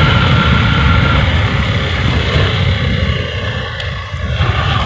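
Motorcycle engine running while riding, with wind rushing over the microphone; the level dips briefly about four seconds in.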